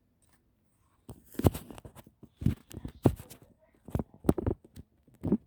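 Irregular clicks and knocks of laptop parts being handled and fitted together by hand, a dozen or so sharp strikes and taps starting about a second in.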